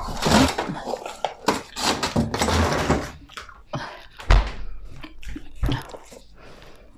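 Containers and packaging being handled on a table near the microphone: a run of rustles and knocks, then sparser clicks with two dull thumps.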